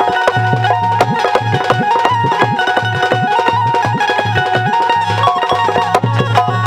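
Instrumental interlude of a Bundeli folk song: a stepping melody line with a steady hand-drum beat underneath.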